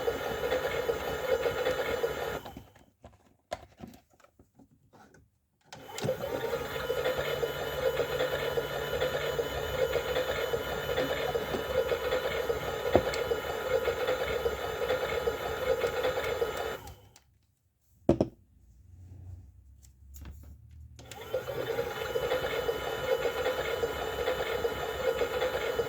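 Toy washing machine's small electric motor whirring steadily as it turns the drum, stopping twice for three or four seconds and starting up again, the pauses of its wash cycle.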